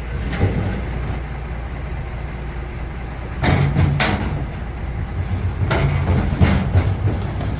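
Knocks and thuds of goods being packed onto a truck, the loudest pair about halfway through and more a couple of seconds later, over a steady low rumble.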